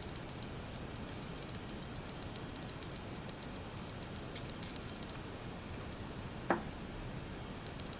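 Computer mouse in use: runs of faint light ticks, like a scroll wheel turning, and one sharper click about six and a half seconds in.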